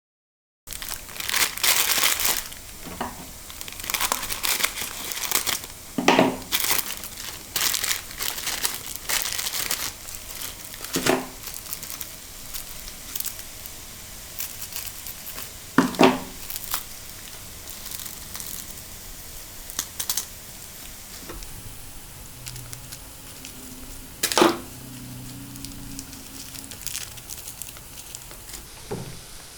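Plastic packaging crinkling and tearing, as when instant-noodle packets and seasoning sachets are opened, with four louder single knocks spaced through it.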